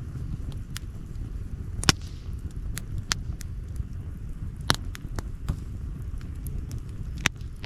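Wood campfire crackling: sharp pops of burning wood every second or so, the loudest about two seconds in and near the end, over a low steady rumble.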